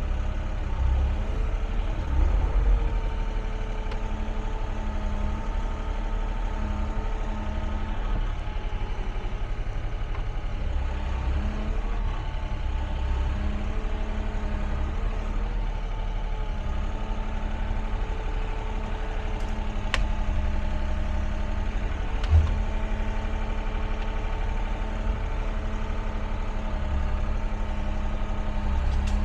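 Excavator's diesel engine running steadily, with a whine that wavers in pitch as the machine works. There is a sharp click about twenty seconds in and a short knock a couple of seconds later.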